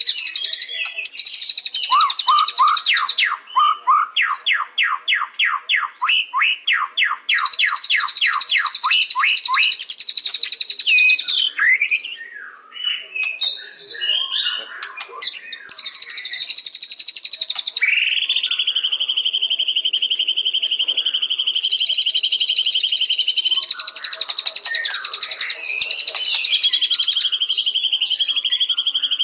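White-rumped shama (murai batu) singing a varied song. It includes a fast run of down-slurred notes, about four a second, bursts of high buzzy trills, and long steady whistles in the second half.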